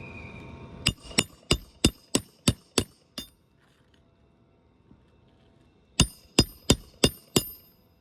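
A hammer driving roofing nails through an asphalt shingle into the nailing strip: a run of about eight sharp strikes, roughly three a second, with a short metallic ring, then a pause and five more strikes, one nail after another.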